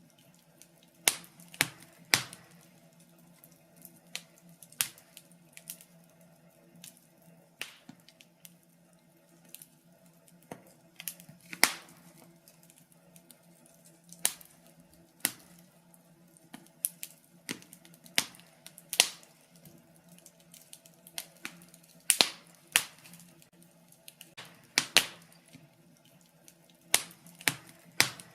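Wood fire in a fireplace crackling, with irregular sharp pops and snaps coming in uneven clusters, over a faint steady hum.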